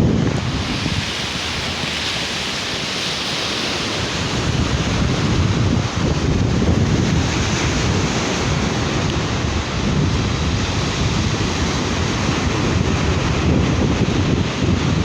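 Sea surf breaking and washing up a beach, a continuous rushing hiss that swells over the first few seconds. Wind buffets the microphone, giving an uneven low rumble.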